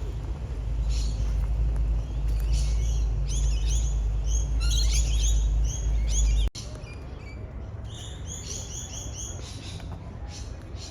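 Small birds chirping in quick repeated series. A low rumble underneath cuts off abruptly about six and a half seconds in.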